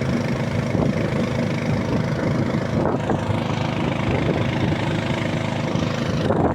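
Small river boat's motor running steadily, an even engine drone with a hiss of wind and water around it; the steady engine tone breaks off just before the end.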